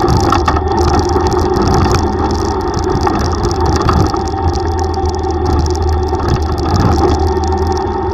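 Yamaha YTX125 tricycle's single-cylinder four-stroke engine running steadily while riding, under a constant rush of road and wind noise.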